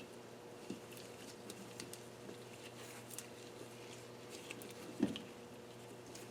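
Faint, scattered light clicks and taps of metal tools and parts being handled during cylinder head disassembly, with one louder knock about five seconds in, over a steady low hum.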